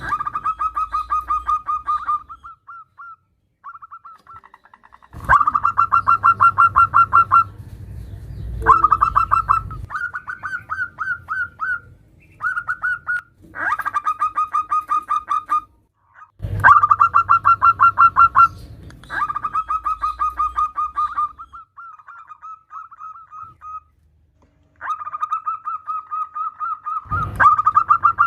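Female zebra dove (perkutut) calling: phrase after phrase of rapid, even pulsed notes, about ten a second, each phrase lasting one to two seconds with short gaps between. This is the call a female gives to draw males into cooing in reply.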